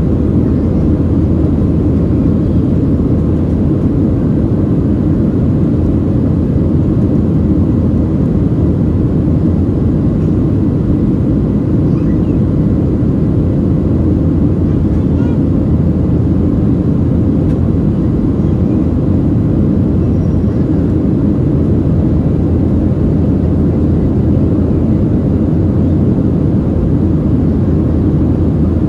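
Steady low roar of a Boeing 737-700's CFM56 jet engines and airflow, heard inside the passenger cabin.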